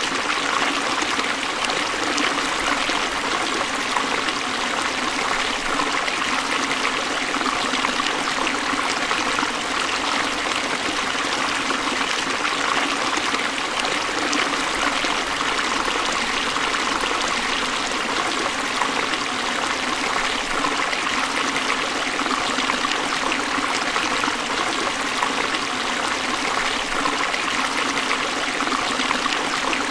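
Forest stream flowing steadily, a continuous rush of running water with trickling.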